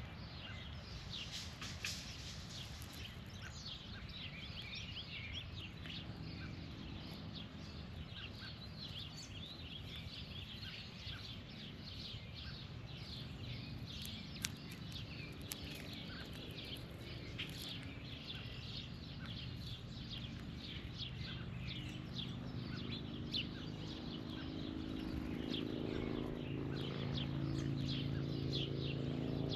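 Many birds chirping and calling with short, quick notes. In the last several seconds a low engine hum grows steadily louder.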